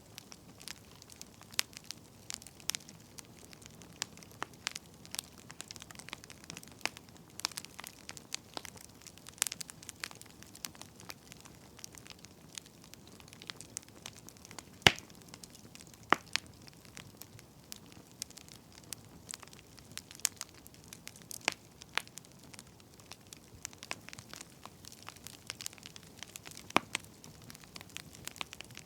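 Wood fire crackling: irregular sharp pops and snaps over a faint steady hiss, with one louder pop about halfway through.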